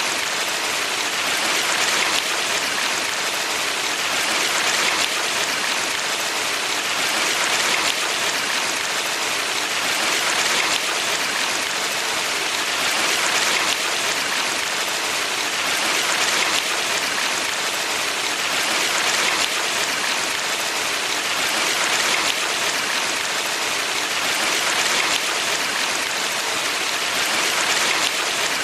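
Valley stream running water: a steady, dense rush with gentle swells every few seconds.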